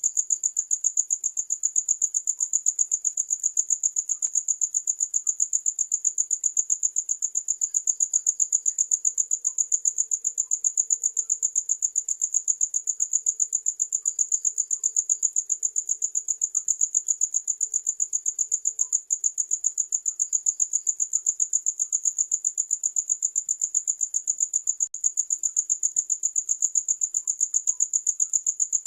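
Cricket chirping without a break: a high, steady trill pulsed at an even, rapid rate. Fainter, lower chirps come and go in the background.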